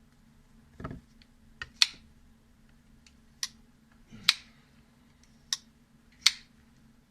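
A string of sharp clicks and taps from a folding knife's small metal parts being handled during servicing. There are five loud, irregularly spaced clicks and a soft thud about a second in.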